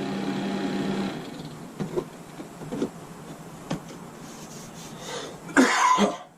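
RV bathroom vent fan motor running with a steady hum during its test, switched off about a second in. A few light knocks follow, then a louder, brief noise near the end.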